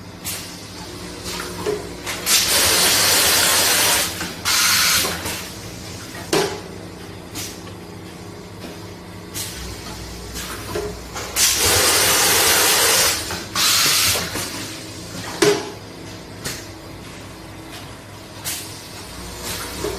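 Fully automatic tea packaging machine running through its vacuum and nitrogen-flush packing cycle. There is a steady hum, with mechanical clicks and knocks. Long bursts of hissing gas or air repeat about every nine seconds.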